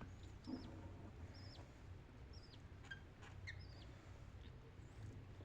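Budgerigars giving short high chirps, about one a second, each ending in a quick drop in pitch, faint over a steady low hum.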